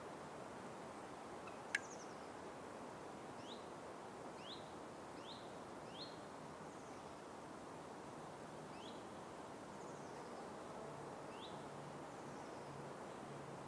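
Forest ambience: a steady hiss of background noise, with a bird giving short upward-sweeping chirps, about six of them spread through. A single sharp click comes in a little under two seconds in.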